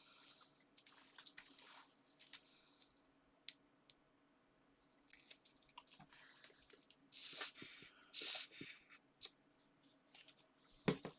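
Paper and card being handled on a craft table: light scattered rustles and taps, two longer rustles a little past the middle, and a sharp knock near the end.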